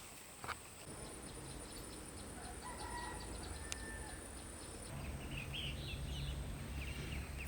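A rooster crows faintly once, with quick high bird chirps around it. A low rumble grows louder about five seconds in.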